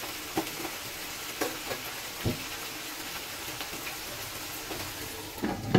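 Chicken pieces sizzling steadily in hot oil in a nonstick wok, with a few light knocks and a louder knock near the end.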